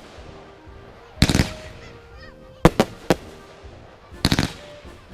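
Fireworks going off: a quick cluster of sharp cracks about a second in, three single bangs in the middle, and another cluster of cracks near the end.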